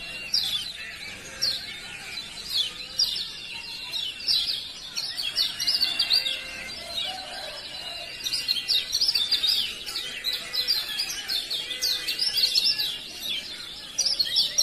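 Male kecial kuning (yellow white-eye) giving rapid 'ciak ciak' calls: quick, high, downward-flicking chirps in dense runs of a second or two with short pauses, and an occasional thin held whistle beneath.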